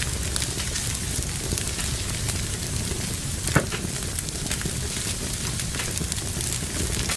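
Fire burning in a fireplace, crackling steadily over a low rumble of flame, with one louder pop about halfway through.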